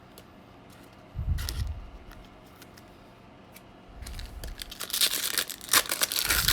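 Trading card pack's foil wrapper being torn open and crinkled in the hands, a dense crackling rustle that builds through the second half. A low thud comes about a second in.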